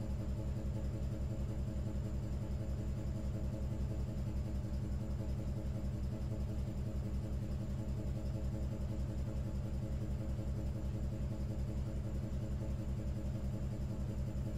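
Car engine idling: a steady low rumble with a fast, even pulse.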